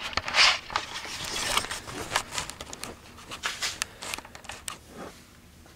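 Scattered clicks, scrapes and rustling of handling noise, loudest in the first second and a half; no engine is running.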